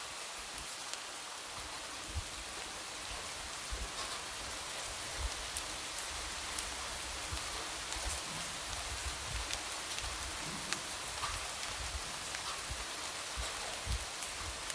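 Light rain falling steadily, with individual drops tapping against a window pane in scattered clicks and soft, irregular low thuds.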